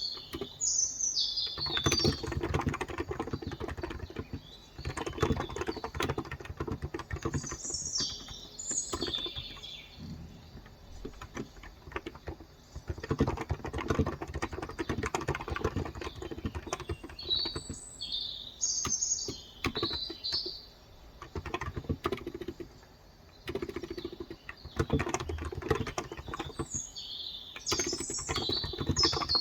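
Steady typing on a Cox Endeavor electrostatic capacitive (Topre-style, 35 g) tenkeyless keyboard, a dense run of soft key presses with a brief pause about three quarters through. Birds chirp over it in four short bursts.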